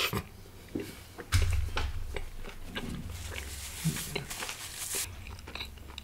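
Close-miked chewing and mouth smacks of a mouthful of butter tandoori roti with dal makhani, a run of short smacks from about a second in until near the end.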